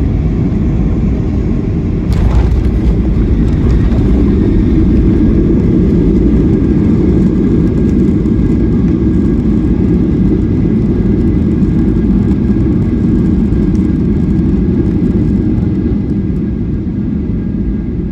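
Cabin noise of a Boeing 737-800 landing: a steady deep rumble, a sudden jolt about two seconds in, then louder rumbling that eases off near the end as the aircraft slows on the runway.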